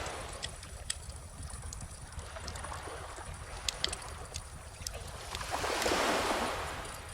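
Wood fire crackling with scattered sharp pops, over the wash of gentle ocean waves; one wave swells in and draws back about six seconds in.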